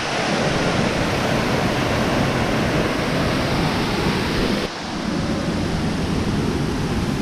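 Waterfall rushing: a steady, loud sound of falling water. The sound changes abruptly about four and a half seconds in.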